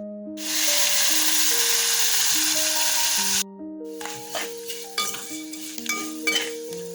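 Background music with a loud burst of sizzling from food frying in oil, which stops abruptly about three seconds in. It is followed by light clicks of a utensil stirring in the pan.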